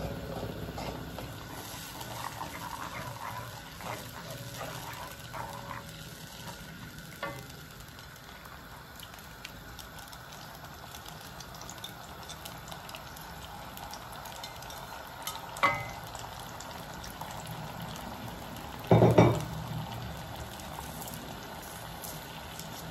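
Sauce sizzling and frying in a wok, with a spatula scraping and stirring through it for the first several seconds. Sliced onions, tomatoes and peppers are then tipped in, with a sharp knock just past halfway and a louder clatter a few seconds later.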